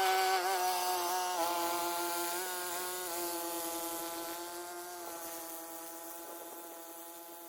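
A small engine running at a high, steady speed with a buzzing drone and slight wobbles in pitch, gradually fading away.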